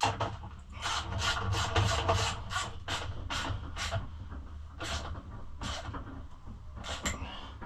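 Ratchet wrench tightening a pit bike's muffler bolts. A quick run of short rasping ratchet strokes, about three a second, is followed by a few slower single strokes.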